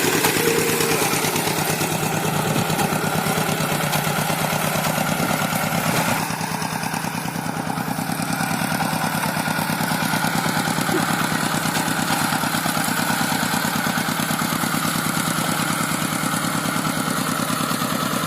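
Engine of a two-wheel paddy-field hand tractor, a single-cylinder diesel, running steadily with even firing pulses, dipping slightly in level about six seconds in.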